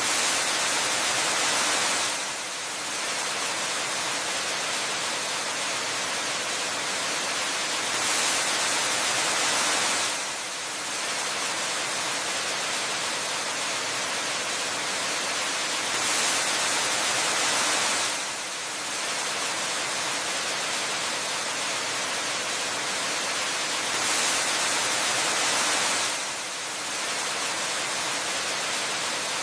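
Steady rushing white-noise hiss of waterfall ambience, mostly high-pitched. It swells louder for about two seconds every eight seconds, then dips briefly, repeating evenly like a short loop.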